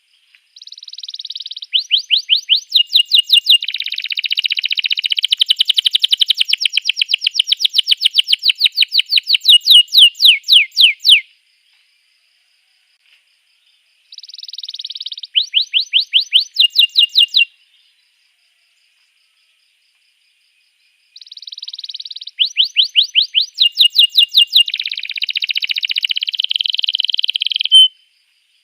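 Canary song: three phrases of fast trills made of repeated downward-sweeping notes, each phrase starting with a short buzzy note and stopping abruptly, with silent gaps between them about eleven and eighteen seconds in.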